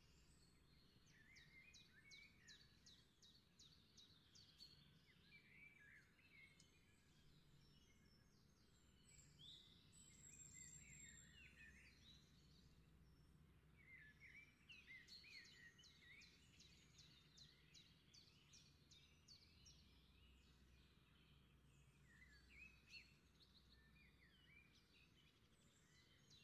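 Faint birdsong: short chirps and quick trills from several birds, coming in bunches every few seconds over near silence.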